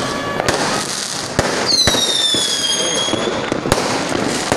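Fireworks going off: several sharp bangs, and about two seconds in a whistling firework gives one long whistle that falls slightly in pitch.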